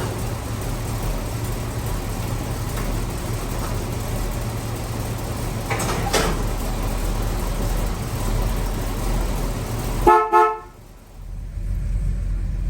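1971 Dodge Charger R/T's 440 big-block V8 idling steadily with a low, even chug, running smoothly after a hard cold start. About ten seconds in, a car horn honks twice briefly, and the engine sound drops out for about a second before resuming.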